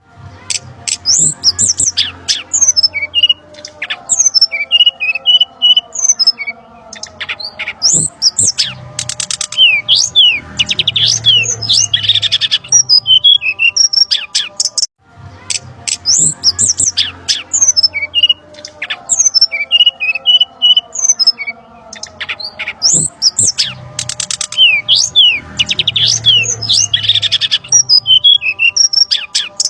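Bird-lure recording of brown-chested jungle flycatcher calls: busy high chirps, fast trills, rattles and harsh squawks. The same sequence of about fifteen seconds repeats halfway through, after a brief break.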